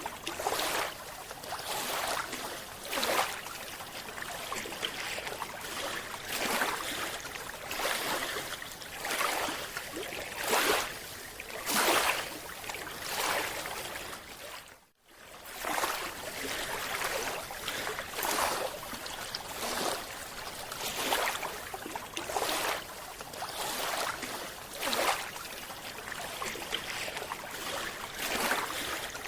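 Underwater water noise: a rushing hiss that swells in surges every second or two, broken by a brief dropout about halfway through.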